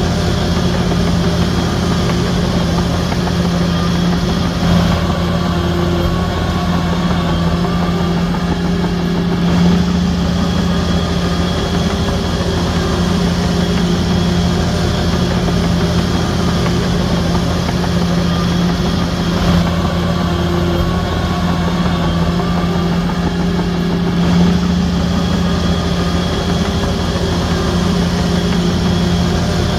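Diesel engine of a Shantui DH17C3 crawler bulldozer running steadily, a low hum whose note shifts slightly every few seconds as the load changes.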